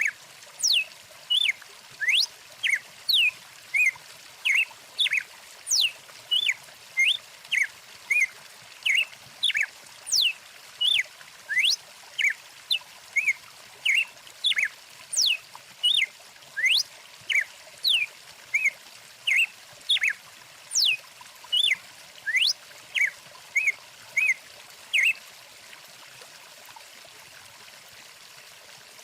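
A bird calling over and over, short sharp whistled chirps that sweep up and down, about one and a half a second, over the steady rush of a flowing stream. The calls stop about 25 seconds in, leaving only the water.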